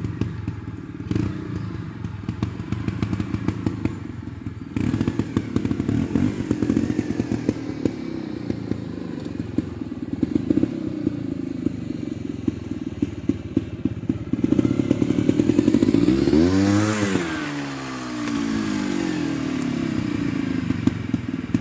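Trials motorcycle engine running at low revs, with thuds and clatter from the bike. About sixteen seconds in it is revved up sharply and drops back again, the loudest moment.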